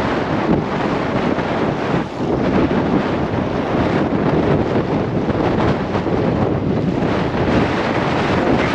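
Gale-force wind buffeting the microphone: a loud, steady rushing noise that dips briefly about two seconds in.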